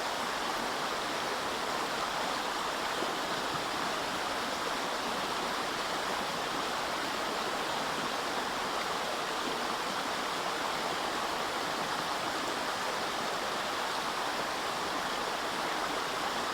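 A flowing river, its water running steadily with an even, unbroken sound.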